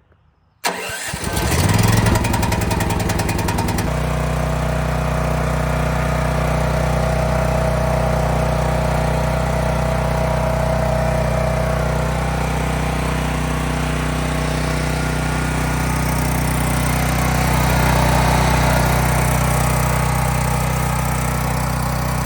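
Champion dual fuel portable generator engine starting about half a second in, with a rapid pulsing rise as it catches, then settling after a few seconds into a steady, even run with no stalling, the sign that the newly replaced carburetor lets it keep running.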